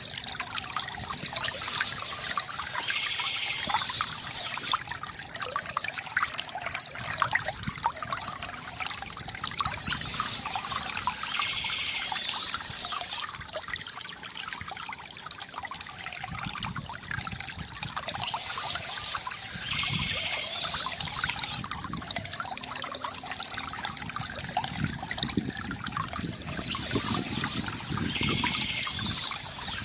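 Small stream trickling and splashing steadily, with a short passage of birdsong returning about every eight seconds, four times over.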